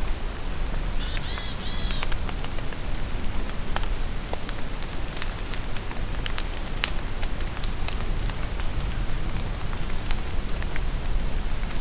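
Steady rain falling in a forest, with raindrops pattering and dripping. About a second in, a bird calls with a quick run of high sweeping notes, and faint short high chirps come now and then after it.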